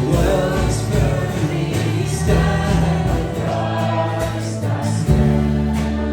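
A group singing a worship song with a band, in the manner of a choir. About five seconds in, a held low chord comes in.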